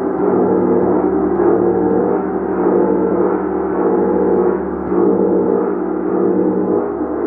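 Gong played continuously, a dense, sustained wash of ringing tones that swells and eases about every second and a half.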